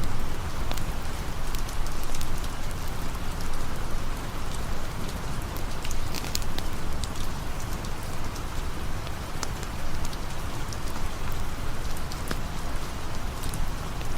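Steady rain falling, a continuous patter with many scattered sharp drop clicks.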